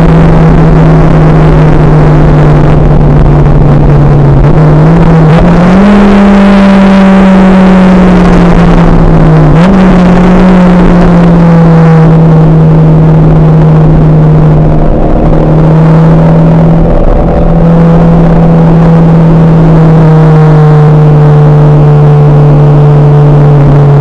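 Honda S2000's four-cylinder engine running hard at high revs on track, heard from inside the cabin along with road and wind noise. The note holds steady, jumps up sharply about five and ten seconds in, and slides lower near the end.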